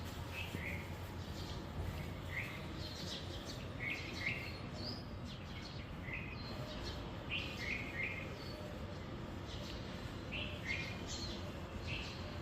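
Birds chirping: short, high chirps repeated every second or so over a steady low background noise.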